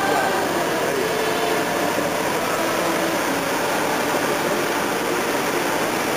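Off-road 4x4 engine running as the vehicle drives across rough frozen ground, heard from a distance under a steady hiss.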